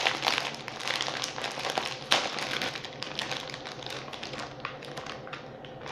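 Dense, rapid crackling and clicking from a bag of prawn salad flavoured potato chips being handled and opened.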